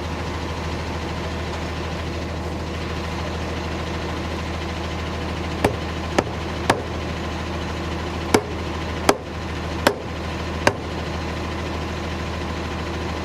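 Seven sharp knocks, irregularly spaced about half a second to a second apart, over a steady low drone like an idling engine. These are parts of the siren head being knocked while it is lined up.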